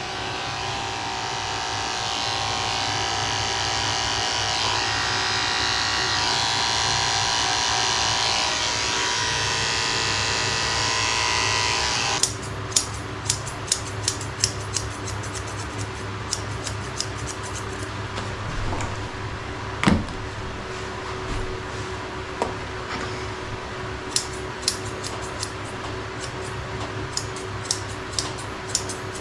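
Electric dog-grooming clippers running steadily for about twelve seconds, then switched off suddenly. After that, scattered sharp clicks over a steady low hum.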